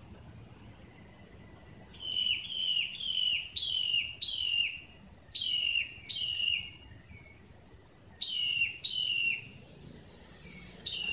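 A bird calling again and again: short notes that each slide down in pitch, about two a second, in three runs. Beneath them, a steady high-pitched insect buzz.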